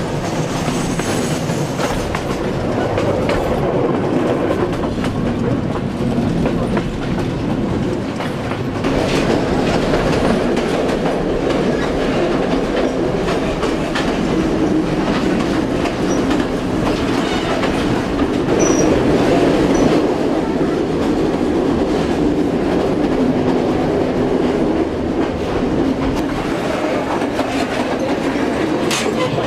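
Train running along the line: a steady rumble with the clickety-clack of wheels over the rail joints.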